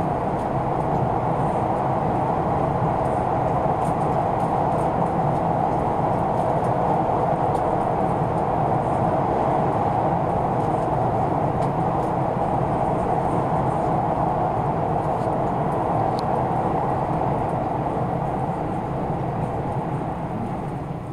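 Steady rumble and roar of a passenger train running at speed, heard from inside the carriage, easing slightly near the end.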